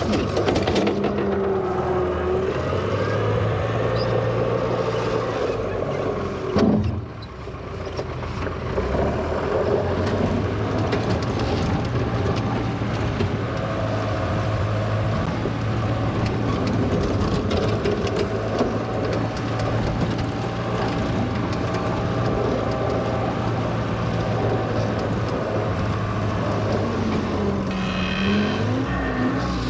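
1963 Volvo LM225 wheel loader's engine running steadily under work, its pitch rising and falling, with a sharp knock about seven seconds in.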